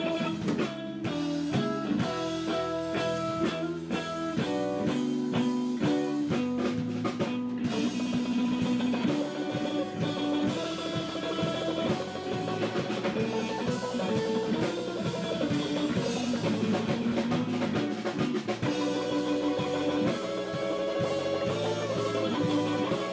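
Live instrumental rock/blues trio playing: electric guitar carrying the melody over electric bass and a drum kit.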